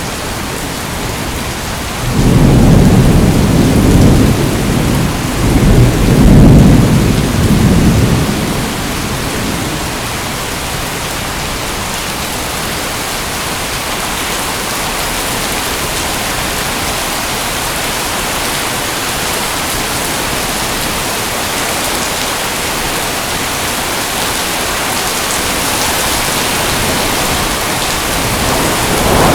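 Steady heavy rain, with a deep rolling thunder rumble that swells twice from about two seconds in and dies away after about six seconds, leaving the rain alone; another rumble begins right at the end.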